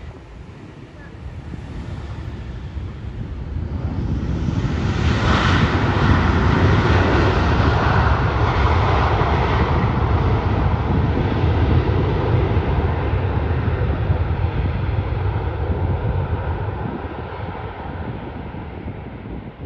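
Airliner's engines passing by: the noise builds over the first few seconds, is loudest through the middle with a steady whine over it, and fades away near the end.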